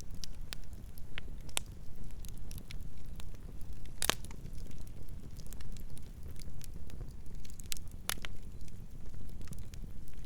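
Campfire burning with a steady low rumble and scattered sharp crackles and pops, two of them louder, about four and eight seconds in.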